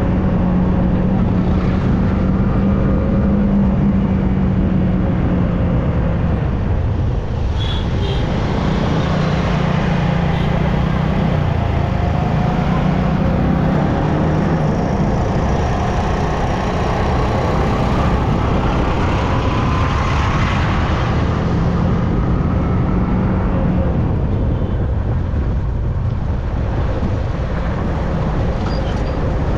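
Yamaha R15's single-cylinder engine running steadily at riding speed, its note wavering and dipping a little, over continuous road and wind noise. In the middle a fainter note rises in pitch.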